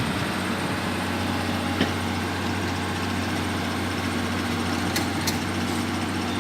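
Heavy diesel engine idling steadily, with one short click about two seconds in.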